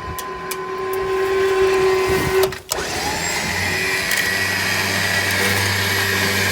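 Badland 12,000 lb electric winch running: a steady motor and gear whine that stops about two and a half seconds in, then starts again with a lower, steadier hum.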